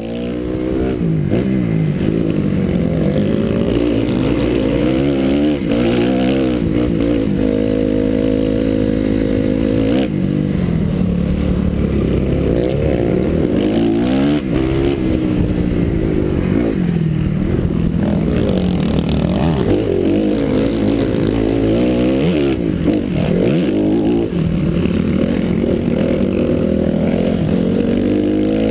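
Honda CRF four-stroke motocross bike engine, revving up and dropping back again and again as the rider works the throttle and shifts around the track, with a short stretch held at a steady pitch.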